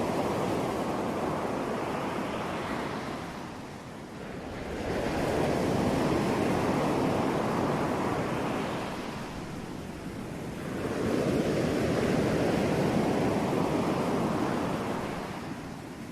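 Ocean waves breaking and washing up on shore, three surges swelling and fading about every five seconds.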